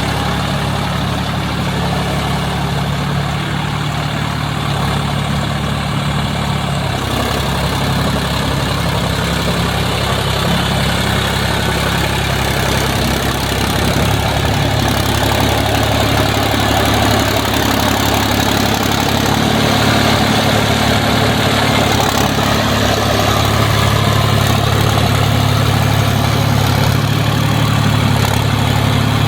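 Sonalika Tiger DI 50 tractor's diesel engine running steadily, working while ploughing. Its note shifts about seven seconds in and grows louder from about halfway through.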